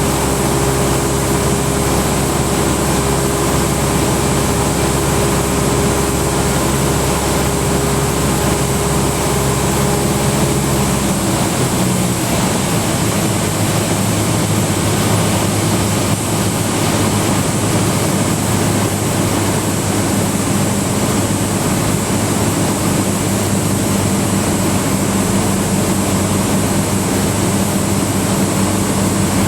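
Cessna 172 Skyhawk's four-cylinder piston engine and propeller droning steadily in the cabin in flight. About eleven seconds in, the engine's low tones shift as the power setting changes.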